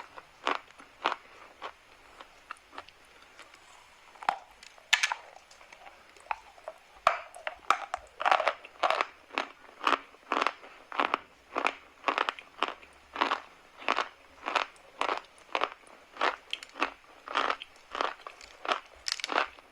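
Chalk being bitten and chewed close to the microphone: a run of sharp, crisp crunches, sparse and faint at first, then steady at about one and a half a second from around seven seconds in.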